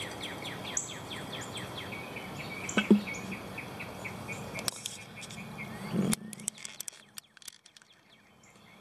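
A bird trills a fast run of repeated down-slurred chirps over a steady faint hiss. A glass jar of potting soil is tilted and shaken, giving a couple of light knocks. The hiss drops away about six seconds in.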